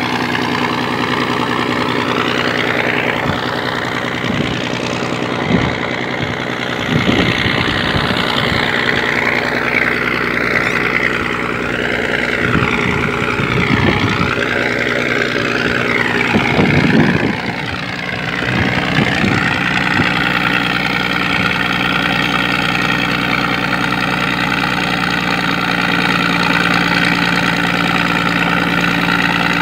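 Scania 113 diesel engine of a sand dredge running steadily. In roughly the first two-thirds its higher tones waver and there are scattered knocks; then it settles into an even drone.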